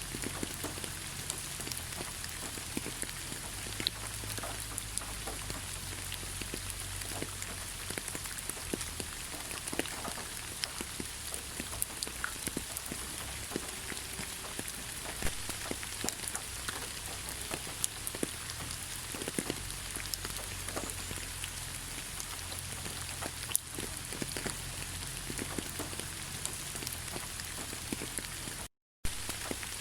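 Steady rain falling in a forest: an even hiss with many scattered close drops pattering and clicking. The sound cuts out completely for a fraction of a second near the end.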